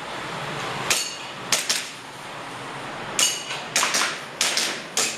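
Airsoft pistol firing about ten sharp shots in uneven strings, several as quick double-taps, during a timed practical-shooting stage.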